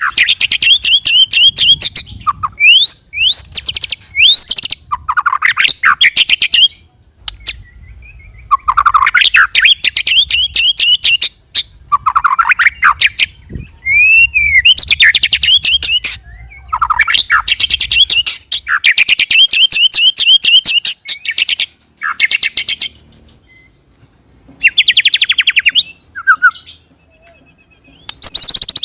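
White-rumped shama (murai batu) singing in loud bursts of fast rolling trills, rapid repeated notes with rising whistled slurs between them. The bursts last a few seconds each, with short pauses in between.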